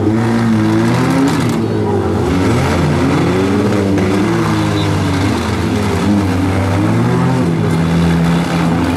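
Several four-cylinder demolition derby car engines revving together, their pitches rising and falling as the cars push and manoeuvre against each other.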